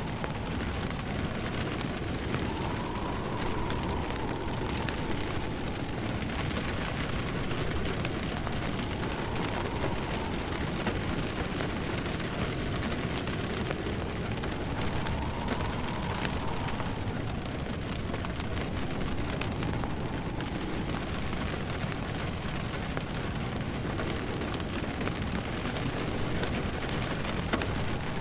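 Steady rain hissing, with a wood fire crackling in scattered sharp pops over it. A faint tone near the middle of the range swells and fades every few seconds.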